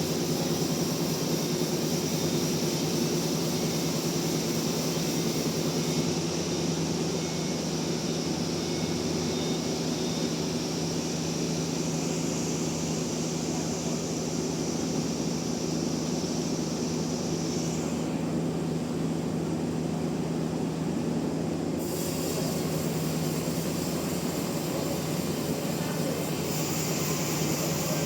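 Sawmill machinery running steadily: a continuous low hum with a hiss above it that drops away and returns several times.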